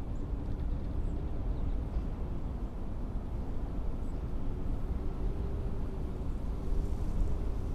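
Blizzard wind blowing in a steady low rumble, with a faint low whistling tone in the gusts.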